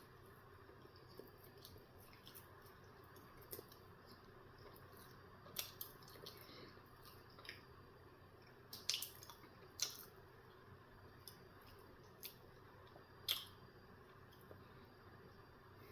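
Soft, wet mouth clicks and smacks from chewing a breakfast sandwich close to the microphone. They come at irregular intervals over a quiet room hush, and the loudest are about nine, ten and thirteen seconds in.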